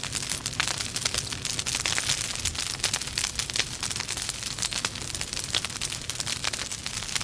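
Logs burning in a fireplace, crackling steadily with many sharp pops close together over a hiss of flame.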